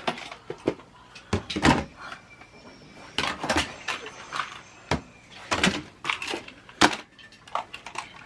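Small toy cars clattering and knocking as they are dropped into a box, in about half a dozen separate bursts.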